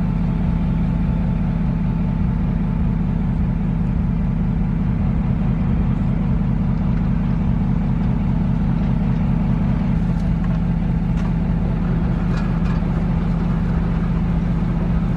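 A motor vehicle's engine drones steadily with an unchanging low hum, and a few faint clicks come about two-thirds of the way in.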